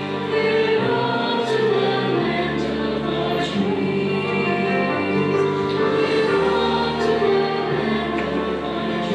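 A choir singing a slow song in held chords over instrumental accompaniment.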